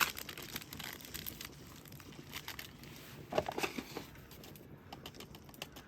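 Rustling and crinkling, as of packaging being handled, with scattered light clicks and knocks and a busier patch about three and a half seconds in.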